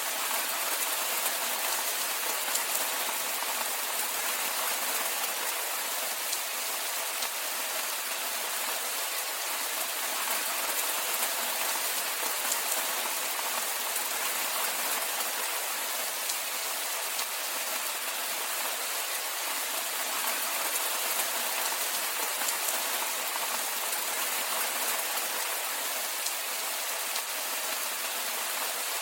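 Steady rainfall, an even hiss with fine patter of drops landing on a surface.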